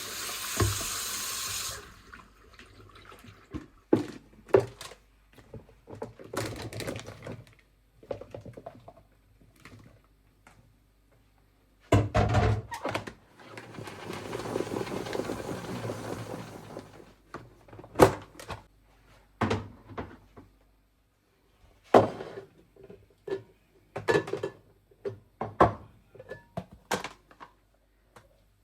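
Water running from a tap, shut off about two seconds in, then a string of separate knocks and clatters of things being handled and set down, with a second short run of water in the middle.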